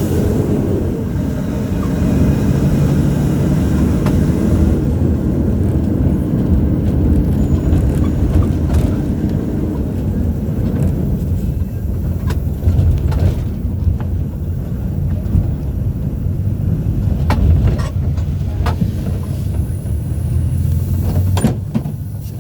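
A city bus's engine running under way, heard from inside the cabin as a loud, steady low drone. Its pitch shifts during the first few seconds, and a few sharp rattles or knocks come through in the second half.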